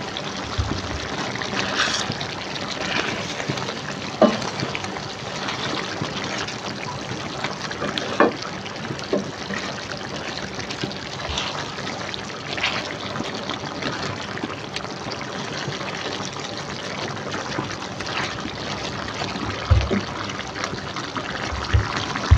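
Duck pieces sizzling in soy sauce in a wok, a steady hiss, with a few knocks and scrapes of a plastic spatula against the pan as they are stirred.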